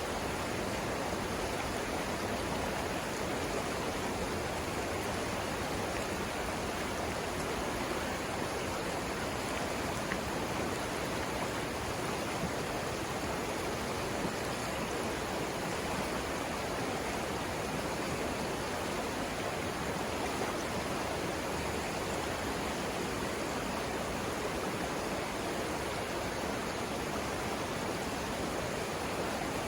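Savannah River water rushing over rapids: a steady, even rush with no breaks or changes.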